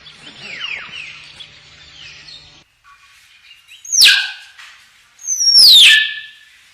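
Hill myna calling: a run of soft, falling whistled notes, then two loud, piercing calls that sweep sharply down in pitch, about a second and a half apart.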